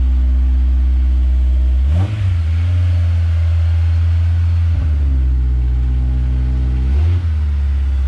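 Honda S2000's four-cylinder engine running through a J's Racing 60RS dual titanium exhaust, a steady low note that shifts in pitch briefly about two seconds in and again near seven seconds as the car is eased out.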